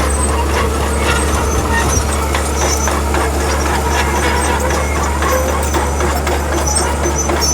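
Heavy diesel construction machinery running steadily: a deep, constant engine drone with light scattered clanks and rattles over it.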